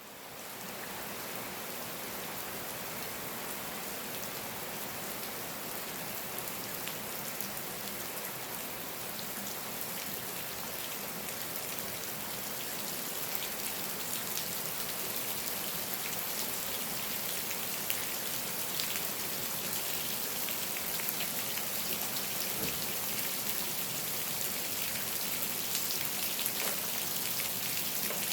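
Steady rain falling, with many separate close drops heard as small sharp hits. It fades in over the first second.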